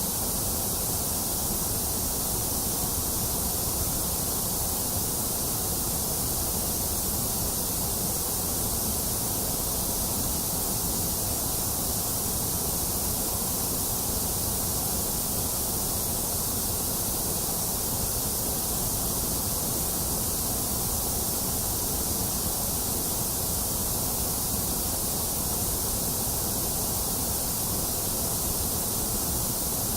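Steady white noise, a constant hiss with no changes, strongest in the high treble and the deep lows, with a hollow in the upper middle.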